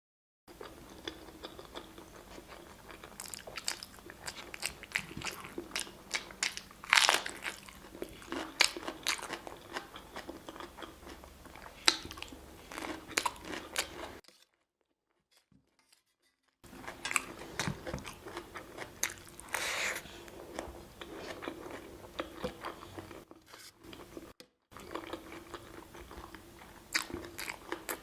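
Close-miked eating: crunchy bites and chewing with many sharp crackles, broken by a silent gap of about two seconds about halfway through.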